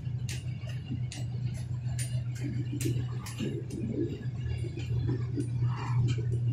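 Train running through a railway tunnel: a steady low rumble with irregular sharp clicks, about two or three a second, and a rattling clatter that picks up in the second half.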